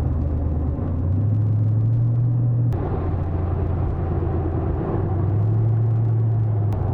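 Vehicle engine and road noise: a steady low drone while driving. Its pitch shifts abruptly a few times.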